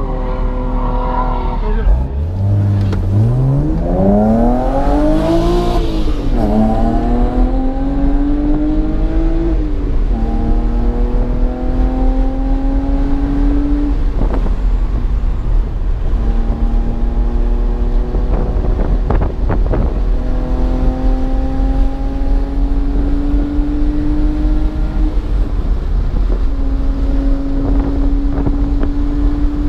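BMW engine heard from onboard on a track lap, winding down and then pulling hard from about two seconds in. Its pitch then climbs and drops back again several times, every four to six seconds, over constant wind and road rumble.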